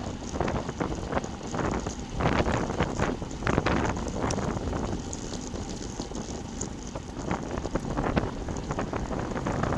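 Wind buffeting the microphone of a bike-mounted action camera during a road ride. It comes in gusts, loudest about two to four seconds in, with a few sharp clicks.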